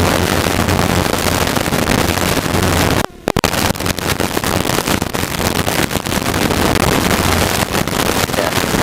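Helicopter cabin noise in flight: a steady low hum from the engine and rotor under loud, even rushing noise. The sound cuts out for a fraction of a second about three seconds in.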